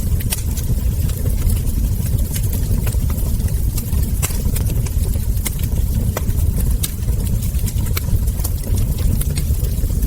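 Wood fire crackling: irregular sharp pops and snaps of burning logs and embers over a steady low rumble.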